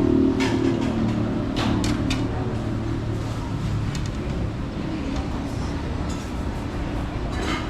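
Coffee-shop ambience: a steady low rumble of traffic and room noise, with a few sharp clinks of crockery or cutlery. Background music fades out in the first second and a half.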